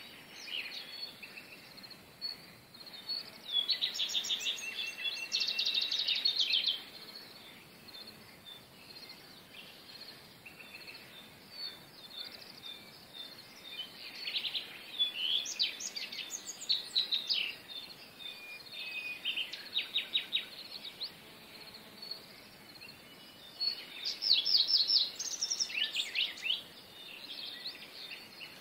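Wild songbirds singing in three bouts of rapid, repeated high trilled notes, each a few seconds long, with quieter spells between, over a faint steady background hiss.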